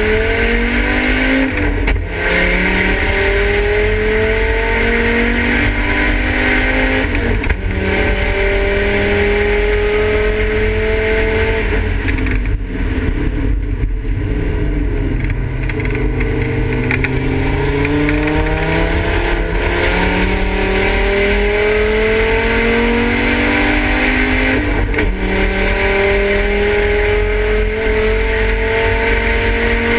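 Volvo 850 race car's straight-five engine heard from inside its stripped cabin, accelerating hard on track. The pitch climbs through each gear and drops suddenly at the upshifts, about 2, 7 and 25 seconds in. Near the middle the engine runs at lower revs for a few seconds before pulling up again.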